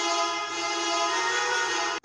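Vehicle horn held on a steady, unwavering tone, cut off sharply at the end.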